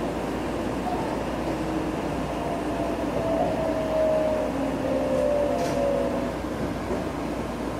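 Meitetsu 2200 series electric train running, heard from inside the passenger car: a steady rumble of wheels and rails, with a faint wavering whine that comes and goes in the middle few seconds.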